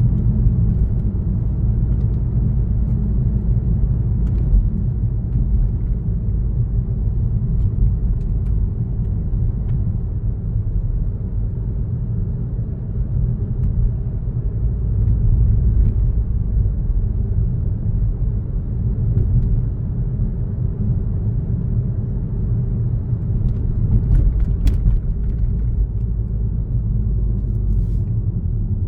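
Car driving on a road: a steady low rumble of engine and tyres, with a few faint clicks near the end.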